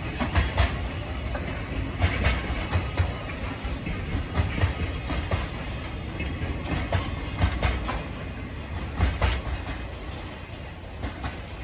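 Container flatcars of a freight train rolling past, their wheels clacking over rail joints in repeated clusters over a steady rumble. The sound fades near the end as the last wagons go by.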